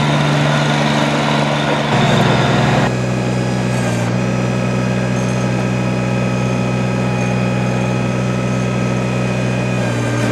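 Kubota BX1860 tractor's three-cylinder diesel engine running. Its note steps down about two seconds in, then it runs steadily.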